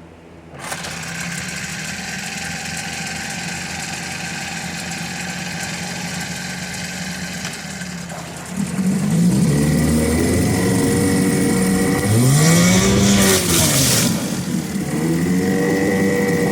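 Johnson/Evinrude 9.9 hp two-stroke outboard motor starting with a sudden catch, then running steadily. About two thirds of the way in it gets louder and the revs swing up and down a few times before settling back to a steady run.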